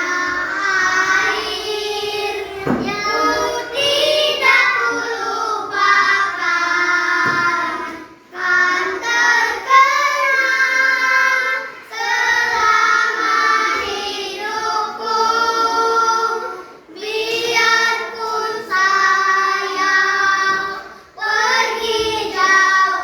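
Children singing as a choir, in held phrases with short breaks every few seconds.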